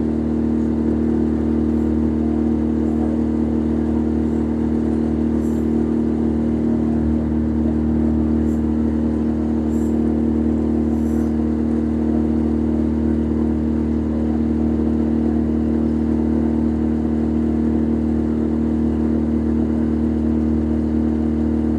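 Boat engine running steadily under way, a loud even drone with a strong low hum that holds the same pitch throughout.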